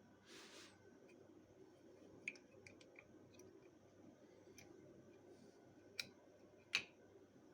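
Near silence with a short soft hiss about half a second in, then a few faint sharp clicks or taps, the loudest near the end.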